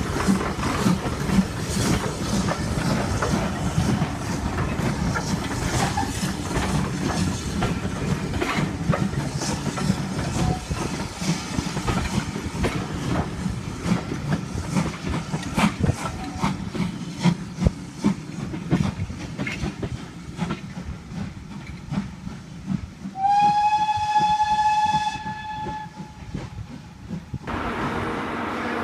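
Passenger coaches of a departing steam-hauled train rolling past, wheels clicking and clattering over the rail joints. About 23 seconds in, a steam locomotive's whistle sounds once for about two seconds, one steady tone. Near the end this gives way to a steady hum.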